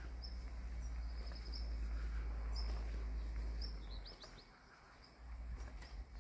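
Small birds chirping: short high chirps, with a quick run of falling notes about four seconds in. Underneath is a low rumble that drops away just before the falling notes and comes back about a second later.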